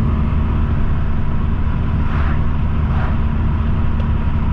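Toyota Supra with a muffler delete and aftermarket downpipe cruising at about 60 mph, its exhaust making a steady low drone heard inside the cabin. Wind noise rushes in through a partly opened window, gusting a few times.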